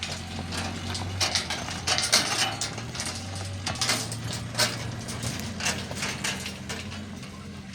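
Irregular clinks and knocks, as of hard objects being handled, over a steady low hum.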